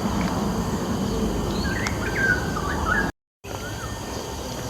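A bird calling with a few short whistled notes in the middle, over a steady low rumble and faint high insect tones. The sound cuts out completely for a moment about three seconds in.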